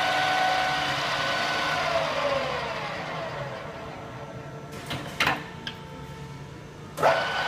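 Ibarmia geared-head drill press running steadily, then switched off: its gear whine falls in pitch as the spindle winds down over a couple of seconds. A few sharp clunks follow, and near the end the machine starts running again.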